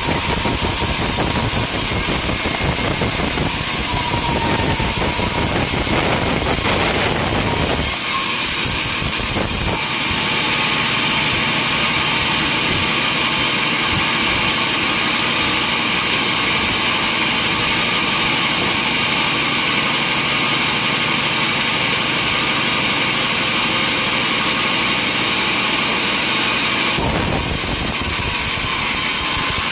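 Sawmill machinery running steadily with a saw working. About ten seconds in the sound turns thinner and brighter as the deep rumble drops out, then the deep rumble comes back near the end.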